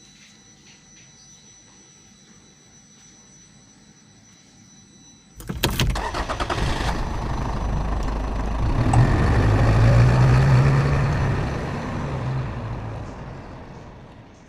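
Car engine starting: about five seconds in there is a burst of rapid cranking clicks, then the engine catches and runs loudly before fading away.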